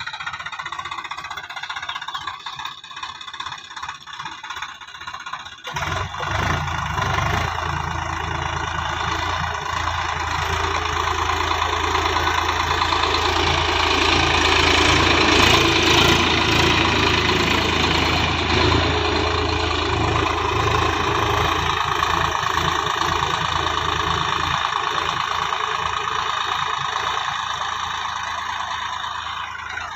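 Swaraj 735 XT tractor's diesel engine running steadily. It is weaker and uneven at first, then from about six seconds in much louder and fuller, loudest around the middle.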